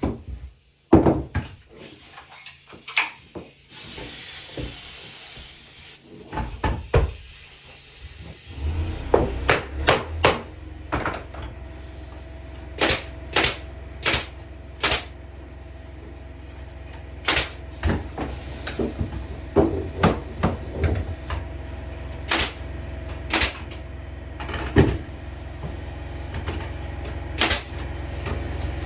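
Irregular sharp hammer blows and wooden knocks from carpentry on wooden boards, some in quick runs of several strikes. A steady low hum sets in about a third of the way through and runs under them.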